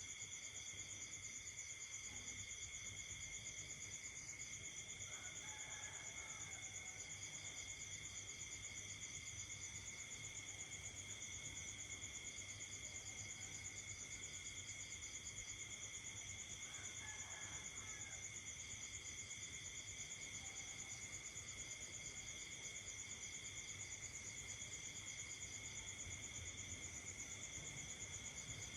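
Night chorus of crickets and other insects: several steady high-pitched trills overlap, with a faster pulsing chirp that starts and stops every few seconds. Two brief lower calls break in, about five seconds in and again near seventeen seconds.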